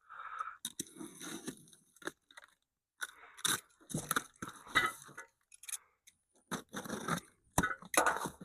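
Shipping package being torn open and handled: cardboard and plastic wrapping crunch and crinkle in irregular bursts, with a couple of sharp knocks near the end.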